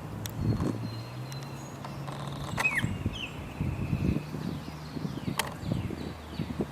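Outdoor nature ambience: short falling bird chirps come and go over a low steady hum, with scattered soft low thumps.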